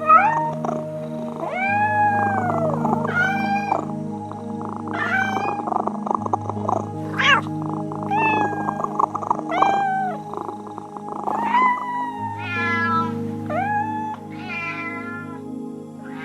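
A cat meowing over and over, about a dozen short calls that rise and then fall in pitch, over soft background music with long held notes.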